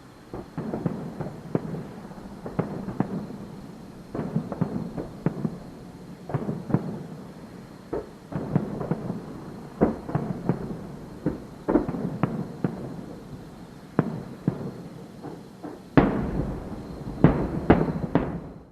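Aerial fireworks shells bursting one after another, a steady run of sharp booms with the loudest cluster near the end.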